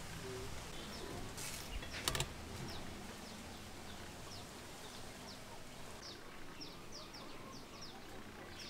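A small bird calling a string of short, high chirps, each falling in pitch, about two a second. Near the start there are a couple of sharp clicks, the loudest sounds here.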